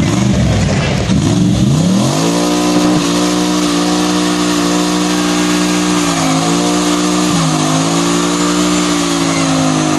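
Swapped-in V8 engine revved up and held at high revs for several seconds, its pitch dipping briefly twice before climbing back.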